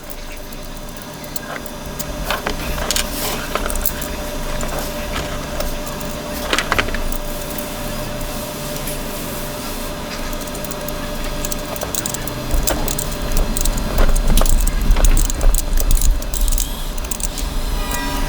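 Clicks, knocks and light clatter of tools and small parts being handled while wiring a battery isolator, over a steady hum. A deeper low rumble comes in about two-thirds of the way through.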